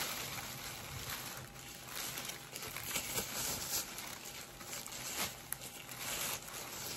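Thin plastic bag worn as a cape rustling and crinkling in soft, irregular bursts as hair is gathered up by hand.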